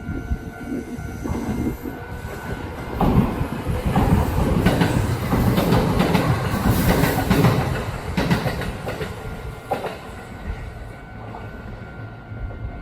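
Kintetsu electric train passing, its wheels clattering over the rail joints in a run of clacks. It gets loud about three seconds in and fades after about eight seconds.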